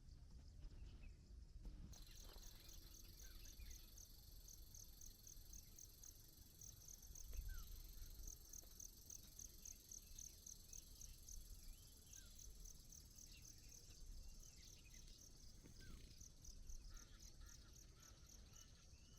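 Faint chorus of insects chirping in a steady, evenly pulsed rhythm, starting about two seconds in, over a low rumble.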